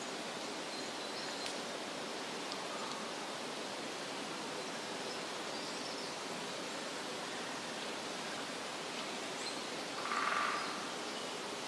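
Forest ambience: a steady rushing hiss, with faint high bird chirps here and there and one louder, short animal call about ten seconds in.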